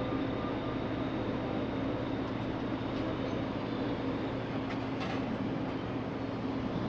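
A ferry's engines running steadily under way, an even drone with a constant low hum, heard from the open deck.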